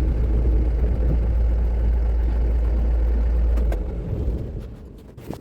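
Steady low rumble of a moving road vehicle, engine and road noise, fading away near the end.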